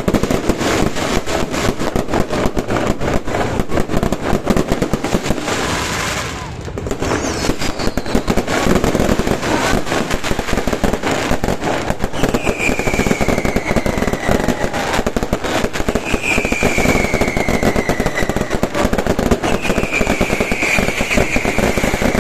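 Fireworks display: dense, rapid crackling and popping, easing briefly about six seconds in, with three falling whistles in the second half.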